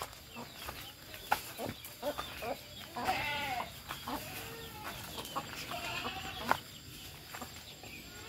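Farm animals calling in a village: a few short calls, the clearest about three seconds in and another around six seconds, with a few sharp clicks between them.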